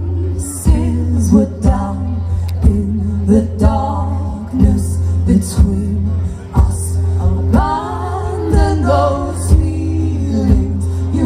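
Live music: singing over a steady beat and a low, sustained bass note.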